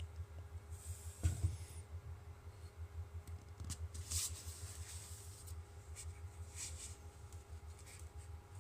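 Short scratchy swishes and faint clicks of rocket parts being handled, a few times, over a steady low hum.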